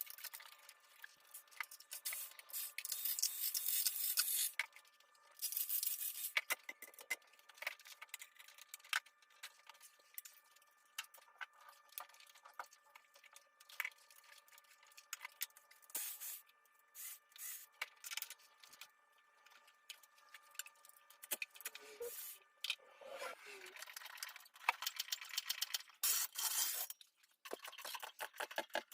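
Hand tools and car parts clicking, scraping and rattling in quick irregular clusters as an engine bay is taken apart, with a faint steady tone underneath.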